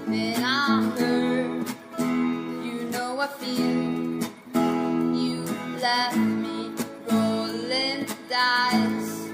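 Music: acoustic guitar strummed in steady, repeated chords, with a wavering pitched line over it at several points that may be a wordless voice.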